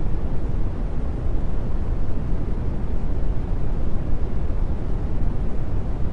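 Steady brown noise: an even, deep rushing hiss, strongest in the bass and fading toward the treble, with no change.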